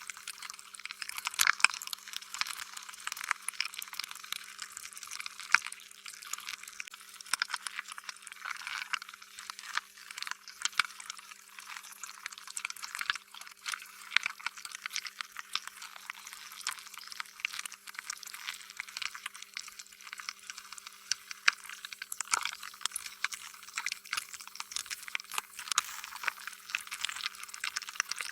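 Slime being squished and stretched: a continuous run of wet, sticky squelches and crackles, with no steady rhythm and a faint steady hum beneath.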